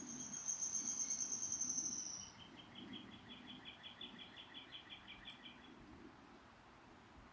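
Songbirds singing outdoors. A fast, high trill runs for about two seconds and drops slightly in pitch, then a rapid series of lower repeated notes follows for about three seconds.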